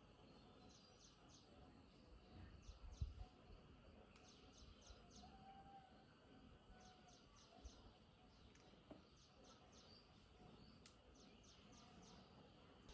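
Faint outdoor background with a small bird chirping in quick runs of three or four short high notes, repeating every second or two. A soft low thump about three seconds in.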